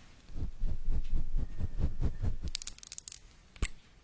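Close-up ASMR trigger sounds: a quick run of soft low thuds, about five a second, then a brief crisp crackle and a single sharp click near the end.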